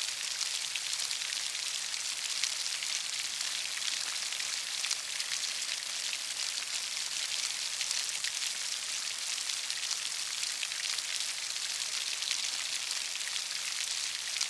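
Steady rain falling: an even hiss of drops with faint fine ticks, without a break.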